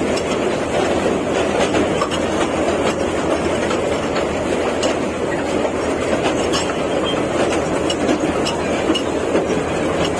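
Park toy train running along its track: a steady running noise with scattered clicks from the wheels and track.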